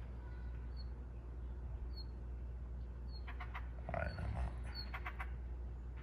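Small bird giving short, high single chirps about once a second, over a steady low hum, with a short run of clicks between about three and five seconds in.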